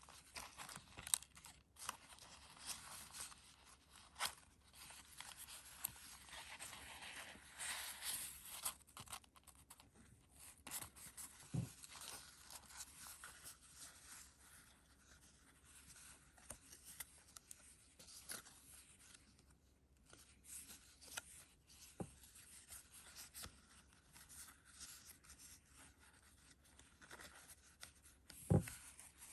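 Paper pages of a handmade junk journal being turned and handled, a soft continuous rustling and crinkling with small clicks. There are two low soft thumps, one about a third of the way in and one near the end.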